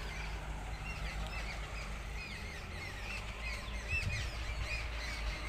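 Many small birds chirping with short, repeated calls, over a low steady rumble.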